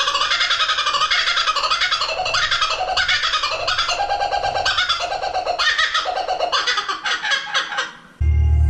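A bird calling in a rapid, harsh series of short pitched notes that thins out and breaks off about eight seconds in. Low ambient music starts near the end.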